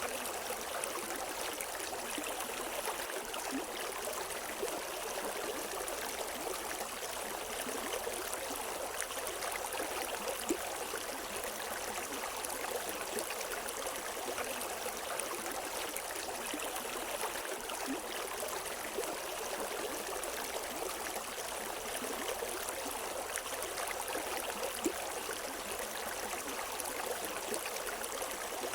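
River water flowing over rocks, a steady rushing and babbling with no birdsong.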